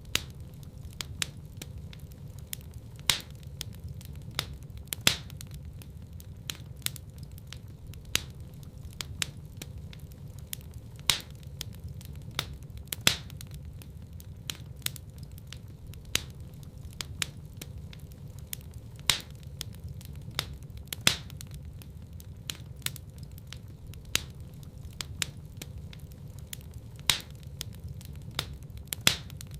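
Wood fire in a fireplace crackling: frequent sharp pops and snaps of varying loudness over a steady low rumble of burning, with the loudest pops every couple of seconds.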